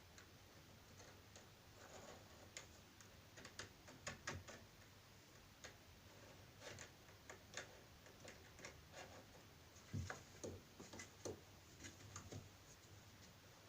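Near silence with faint, irregular light clicks and taps from small parts and tools being handled.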